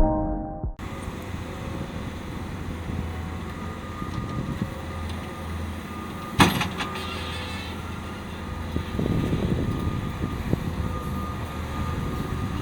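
Dirt bikes running on a supercross track, their engines revving at a distance. A single sharp bang about six seconds in is the loudest sound, and the engine noise grows busier near the end.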